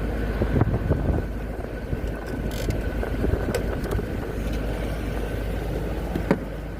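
Steady low rumble of nearby road traffic, with a faint steady high whine and a few light clicks.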